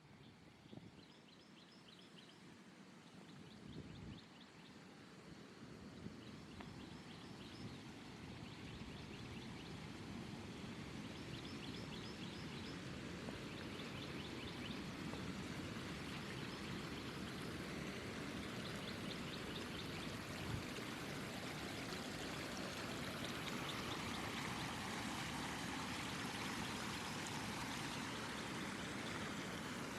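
Running water of a stream, a steady rushing that grows gradually louder, with short high-pitched trills repeating now and then over it.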